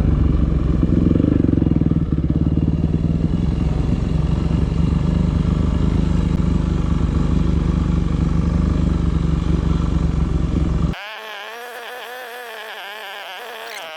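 Yamaha WR250F single-cylinder four-stroke enduro engine running under steady load, with a fast, even pulse. About three-quarters of the way through it cuts off abruptly, and a quieter sound with a wavering pitch follows.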